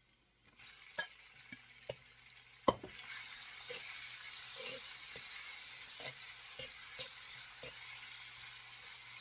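Food sizzling in hot oil in a wok, with a metal spatula stirring and knocking against the pan. The sizzle starts faint and gets steadily louder after a sharp clank about three seconds in.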